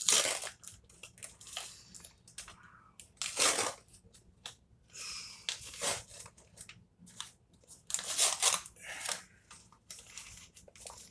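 Paper microwave popcorn bag being pulled and torn open by hand, with irregular bursts of crinkling and tearing paper, the loudest at the very start and around three and a half and eight seconds in.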